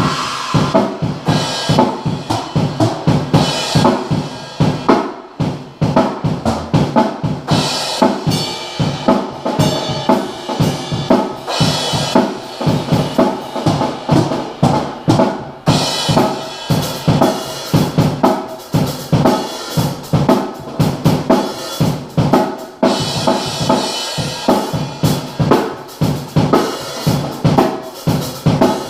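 Acoustic drum kit played in a continuous groove: bass drum and snare hits, with cymbals crashing in every few seconds.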